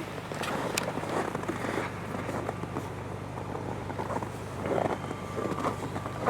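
2023 Tank 300's engine idling steadily, heard from outside the vehicle, with scattered light clicks over it.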